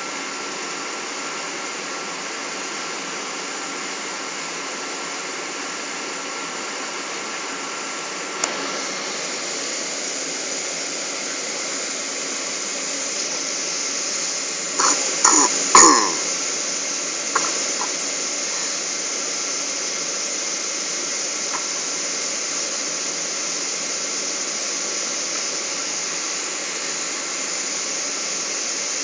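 Steady cabin noise inside a Boeing 777 in flight: an even hiss of engine and airflow noise, a little brighter after about eight seconds. A single click comes just before that, and a short cough-like burst about fifteen seconds in.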